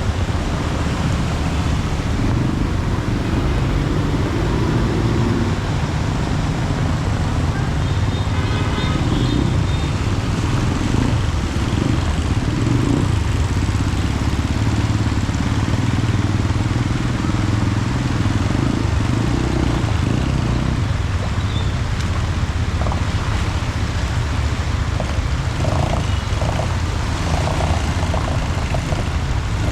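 Motorcycles and cars running along a flooded street, a steady low engine rumble over an even hiss of rain and water. A brief high tone sounds about eight seconds in.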